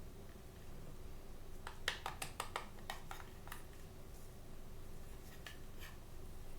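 Hands handling blind-bag or blind-box toy packaging: a quick run of sharp clicks and crackles, then two single clicks near the end, over a faint steady room hum.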